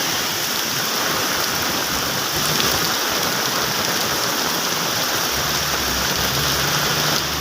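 Steady heavy rain falling, an even dense hiss. A low steady hum comes in about five seconds in.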